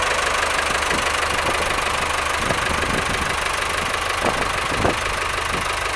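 Ford 5610 tractor's diesel engine idling steadily.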